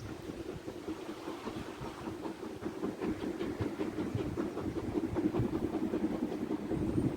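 Steam train hauled by LMS Black Five 4-6-0 locomotives running along the line, with a dense rapid clatter that grows steadily louder as it draws nearer.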